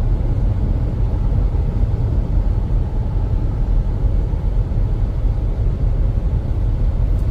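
Steady low road and engine rumble inside a car's cabin while driving on the interstate.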